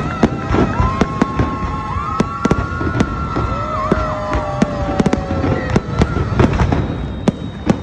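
Aerial fireworks going off in rapid succession: a dense, irregular run of sharp bangs and crackling bursts.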